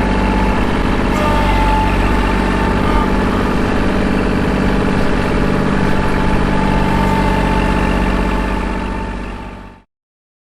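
Kubota L2501 compact tractor's diesel engine running steadily, then fading out near the end.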